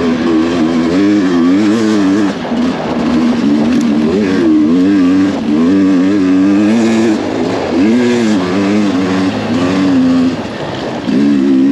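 2023 Sherco enduro dirt bike engine ridden hard, its revs climbing and dropping again and again as the throttle opens and closes.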